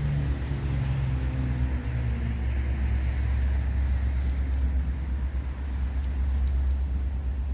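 Steady low rumble of a BNSF coal train's diesel locomotives approaching, with the tail of background music fading out over the first two seconds or so.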